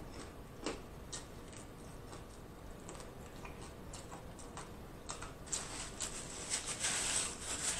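Close-miked chewing of fried food: soft, scattered wet mouth clicks that grow denser and louder in the last couple of seconds.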